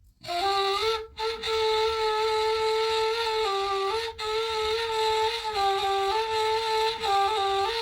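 Solo flute playing a slow, stepwise melody that begins a moment in, with short breath pauses about a second in and again around four seconds in.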